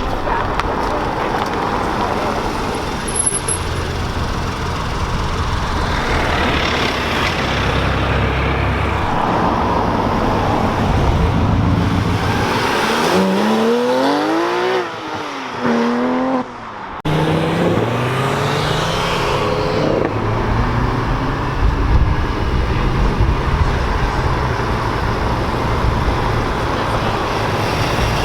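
Car engines over steady traffic noise. About halfway through, one car accelerates hard, its engine note rising in pitch and falling back, then rising again after a brief dip.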